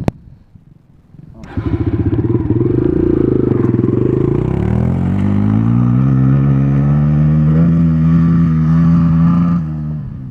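A sharp click, then about a second and a half in a dirt bike engine starts running loudly. Its pitch wavers, climbs, and is held at high revs for several seconds before dropping off near the end. The bike is being wound out in first gear instead of shifted into second.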